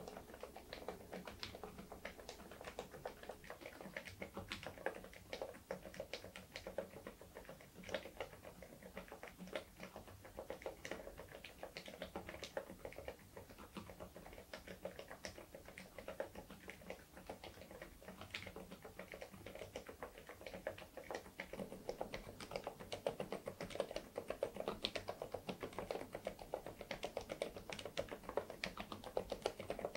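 Continuous typing on an InterPixel IPK104 PRO full-size mechanical keyboard fitted with Leobog Cotton Candy low-noise switches: a steady run of damped keystrokes, several a second.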